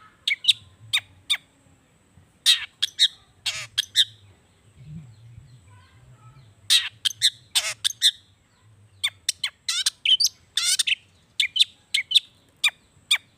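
Long-tailed shrike (cendet) singing a rapid string of sharp, falling notes and buzzy trills, with a lull of about two seconds in the middle.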